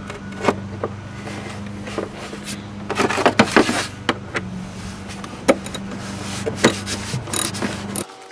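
Scattered clicks, knocks and rubbing of plastic intake parts being worked loose by hand in an engine bay, busiest about three seconds in, over a steady low hum that cuts off near the end.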